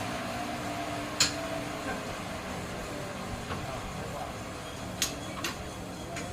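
Machinery running with a steady hum, and sharp knocks about a second in and twice close together near the end.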